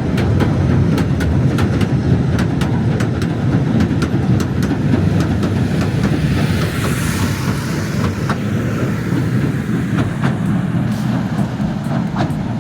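Southend Pier Railway train running past on the pier track: a steady low rumble with wheels clicking over the rail joints, and a hiss that swells briefly in the middle.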